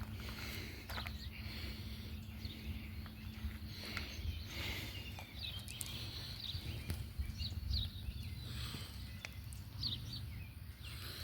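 Outdoor background: a low steady rumble with short, high bird chirps scattered through it, more of them in the second half.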